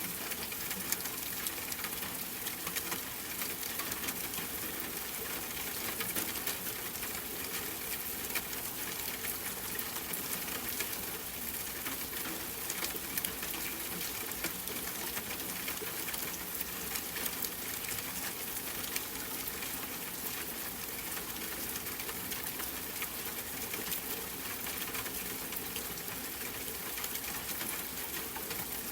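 Steady rain pattering, an even hiss of falling water dotted with many small drop ticks.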